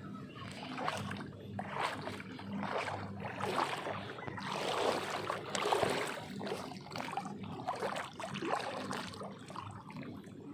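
Water sloshing and splashing in irregular surges, with small clicks and knocks, over a faint steady low hum.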